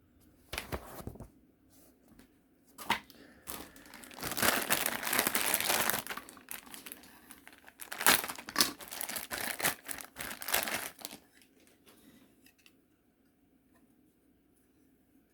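Plastic packaging of a model kit crinkling and rustling in irregular bursts as the parts bags are handled, stopping about three-quarters of the way through.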